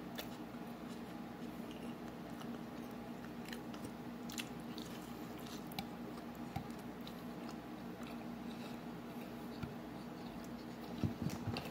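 Close-up chewing of tacos: scattered small crunches and wet mouth clicks, a little louder near the end, over a steady low hum.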